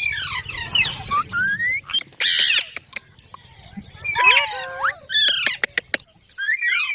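Green parrots squawking and chattering: a string of sharp rising and falling calls and whistles with short clicks between them, over a low hum that stops about six seconds in.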